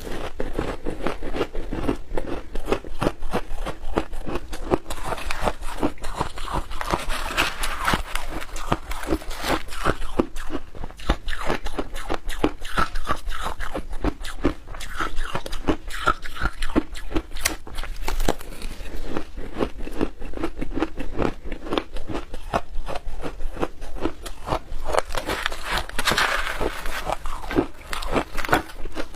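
Close-up crunching and chewing of frozen milk-powder shaved ice: a dense, continuous run of rapid crackly crunches with no break.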